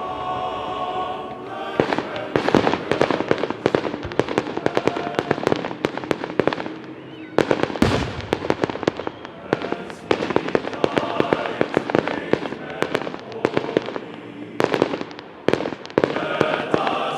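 Fireworks going off in a rapid, dense barrage of bangs and crackles, several reports a second, with two brief lulls, over background music.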